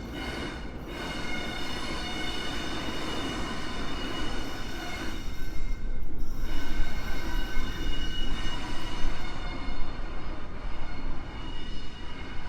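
NR class diesel-electric locomotive running light engine along the track, a rumbling mechanical noise with several steady high-pitched tones over it, getting louder about halfway through.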